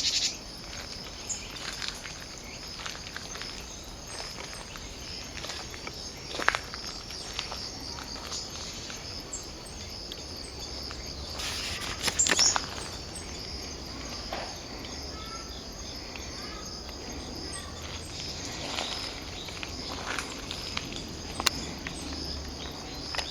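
Steady high-pitched insect chorus outdoors, with scattered short sharp sounds over it, the loudest a cluster about twelve seconds in.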